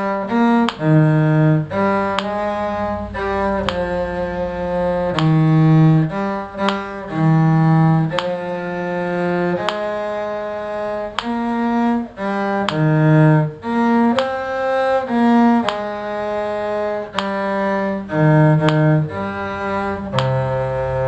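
Bowed string instruments in the cello range playing a round in six-beat time at a slow practice tempo, with a low line and a higher line moving together in steady separate bowed notes.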